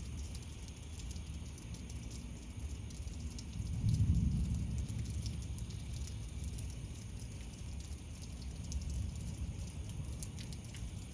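Steady rain falling, a fine patter of drops over a low rumble. About four seconds in, a roll of distant thunder swells and fades over a couple of seconds.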